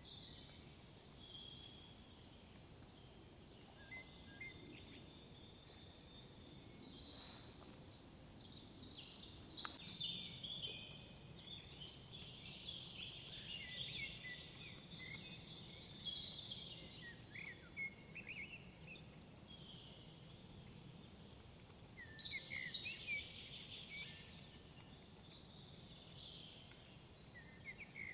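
Several songbirds singing in woodland: overlapping chirps, trills and whistled phrases, with a few high thin trills now and then, over a faint low rumble of background noise.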